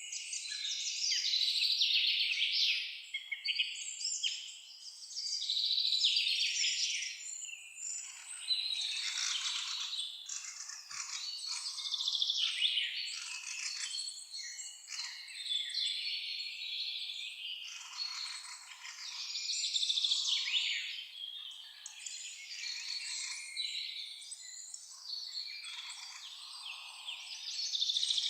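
Several songbirds singing and chirping at once, a dense, overlapping chorus of high calls and trills that swells and ebbs every few seconds.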